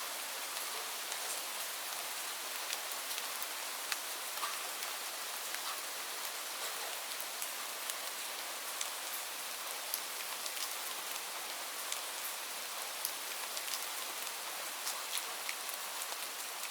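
Steady rain falling, an even hiss with many scattered sharp drop hits.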